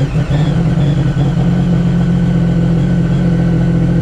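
Race jet ski engine running at a steady idle after being jump-started in the cold. The sound cuts off abruptly right at the end.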